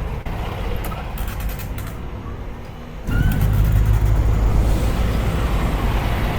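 Peterbilt semi truck's diesel engine running low, with a few light clicks, then getting much louder and heavier about three seconds in and staying that way.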